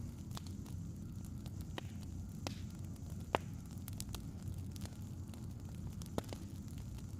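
Wood fire crackling: scattered sharp pops over a steady low rumble, the loudest pop about three seconds in and another near the end.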